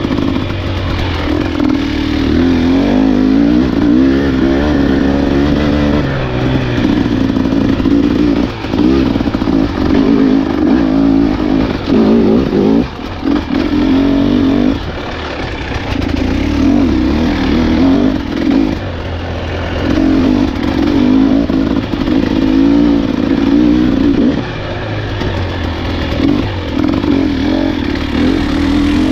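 Enduro dirt bike engine running under load on a trail, the throttle opened and closed again and again, with pitch rising and falling and brief drops as the rider shuts off, about nine, thirteen, fifteen, nineteen and twenty-five seconds in.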